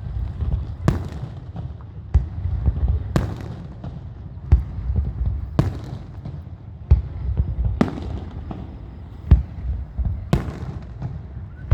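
Fireworks going off, about one sharp bang every second or so, over a continuous low rumble.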